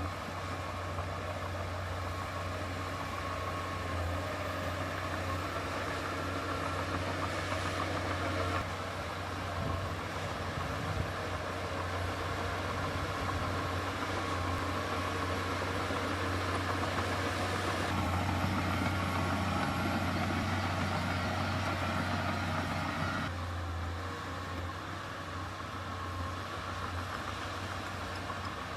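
Heavy diesel engine of earthmoving machinery running steadily, its sound shifting a few times: a change about eight seconds in, louder from about eighteen seconds, easing off again around twenty-three seconds.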